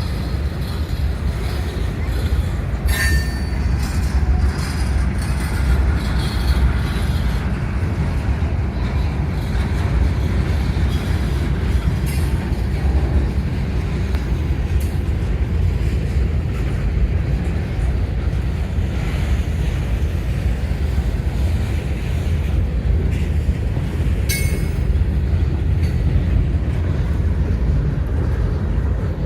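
Freight train cars rolling past with a steady low rumble of wheels on rail. A brief high wheel squeal comes twice, a few seconds in and again late.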